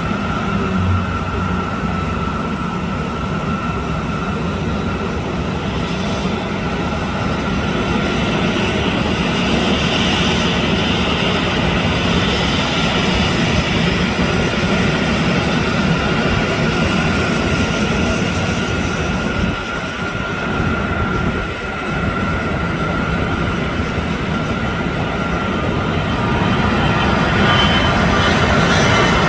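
Airliner cabin noise during the takeoff run: steady engine noise and rolling rumble with a steady whine, growing louder near the end.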